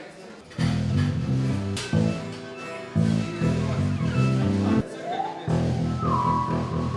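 Rock band music led by guitar over a bass line. It comes in about half a second in, drops out briefly near five seconds, and resumes with a held higher note over the bass.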